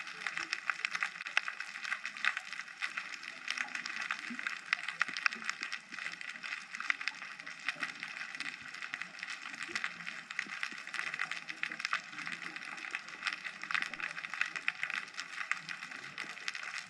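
Underwater ambient crackle picked up through a GoPro housing: a steady, dense fizz of countless tiny clicks, with no breathing or bubble rhythm.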